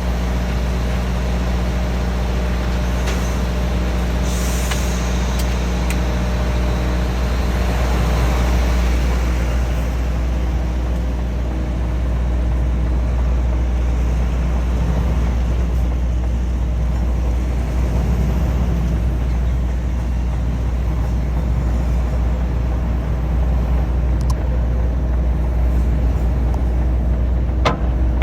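HGV lorry engine running with a steady low rumble, a brief hiss about four seconds in and a few sharp clicks near the end.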